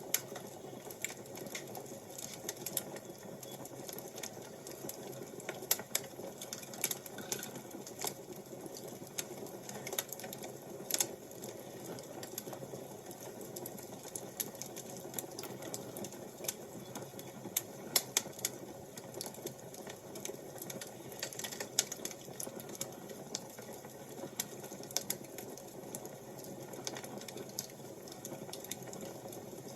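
Wood fire crackling: irregular sharp pops and snaps, some louder than others, over a steady low rush.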